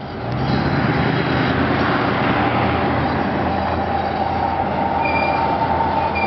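A passenger train passing close by: an EMD E8 diesel locomotive running, with the bilevel coaches' steel wheels rolling on the rails and a thin, steady squeal. The sound fades in at the start and then holds steady.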